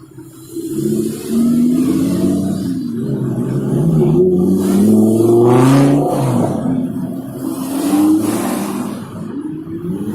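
Sports car engines revving, their pitch rising and falling repeatedly, loudest a little past the middle.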